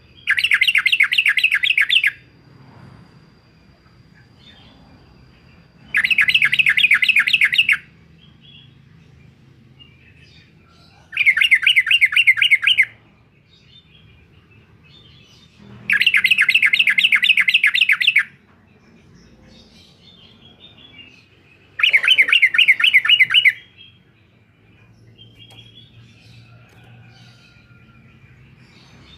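Yellow-vented bulbul calling its fast 'uklik-uklik' phrase of quickly repeated notes, in five bouts of about two seconds each, roughly five seconds apart, with faint chirps in between.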